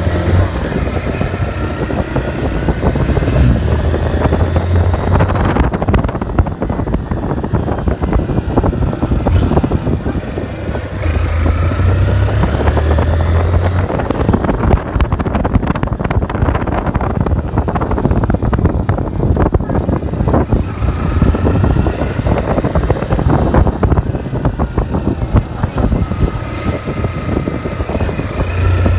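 Honda CG 160 Start's single-cylinder four-stroke engine running on the move, rising in pitch several times as it accelerates through the gears. Heavy wind rush on the microphone runs under it.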